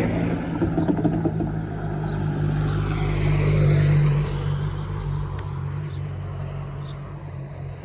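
A road vehicle passing over the level crossing: a steady engine hum that swells to its loudest about halfway through, then fades as it goes away.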